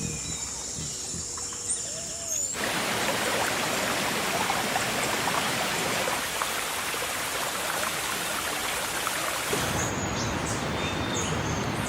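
Steady hiss of rain, starting suddenly about two and a half seconds in, with birds chirping at the start and again near the end.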